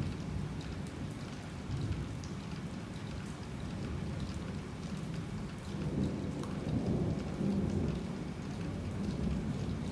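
Heavy rain falling steadily, with a low rumble of distant thunder swelling about six seconds in and fading a couple of seconds later.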